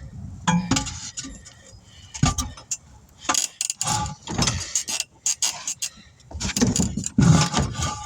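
Irregular clanks, knocks and scrapes of a manual tire changer and hand tools as a large tire is worked onto its rim, busiest near the middle and again near the end.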